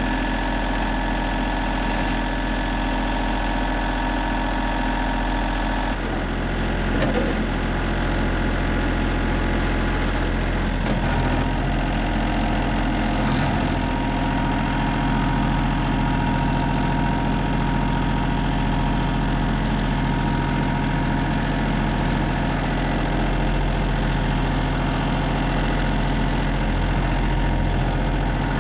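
Yanmar compact tractor's diesel engine running steadily. Its low note shifts about six seconds in.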